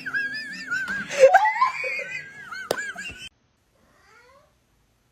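High-pitched warbling vocal sounds, with a rising call about a second in, cutting off abruptly a little after three seconds. A few faint chirps follow.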